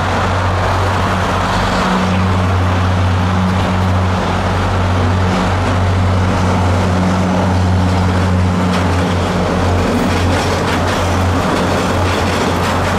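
MBTA Commuter Rail diesel locomotive and its bilevel coaches passing, a steady low engine drone over rolling rumble, alongside an Orange Line subway train running on the next track.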